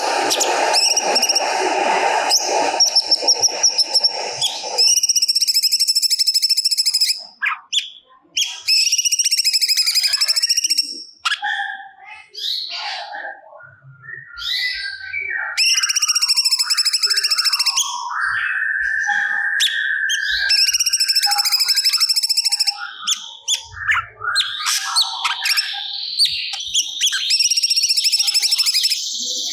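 A cucak cungkok singing vigorously: bursts of fast, buzzy, high trills that repeat several times, alternating with lower warbled phrases that are imitations of other birds' songs. For the first few seconds a loud, steady noise runs under the song.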